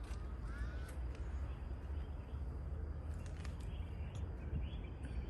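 Birds calling: several short calls in the first second and a few more around the middle, over a low steady rumble.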